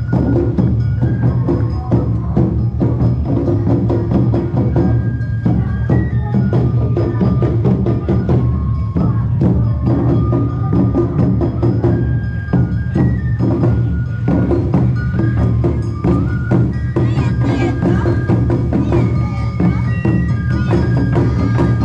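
Awa Odori festival music: drums, bell strokes and a high stepping melody, playing continuously at a lively pace.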